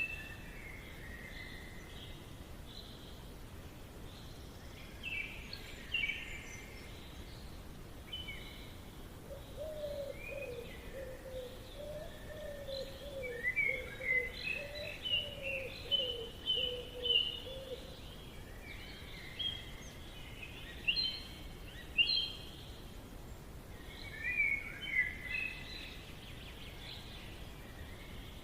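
Forest ambience: songbirds singing in short chirping phrases that come and go, with a lower call repeated about twice a second through the middle, over a faint steady background hiss.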